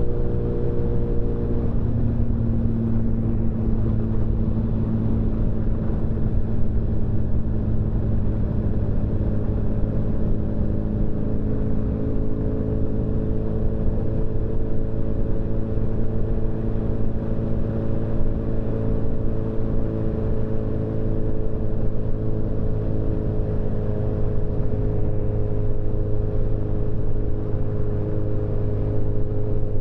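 Motorcycle engine running steadily at cruising speed under a low wind rumble. Its note shifts about two seconds in, then holds nearly even.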